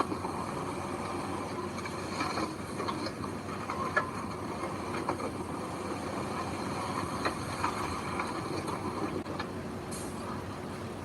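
Heavy diesel earthmoving machinery running steadily, with scattered metallic clanks and clicks.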